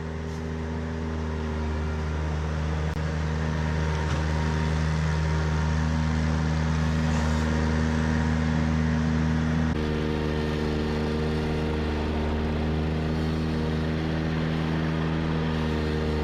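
Ventrac compact articulating tractor engine running steadily under load while cutting brush, its tone shifting slightly about ten seconds in.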